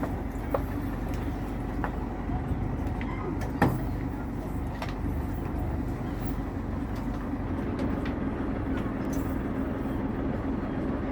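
Boat engine running steadily with a low rumble, with a few short knocks, the sharpest about three and a half seconds in.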